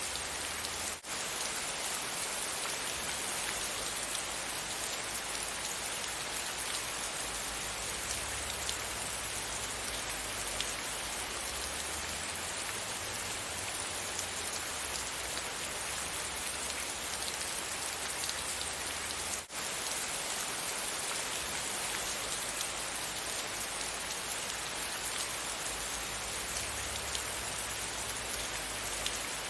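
Steady rain falling on a surface, a dense even patter with scattered drip ticks and a low rumble underneath. The sound drops out for an instant twice, about a second in and near the middle.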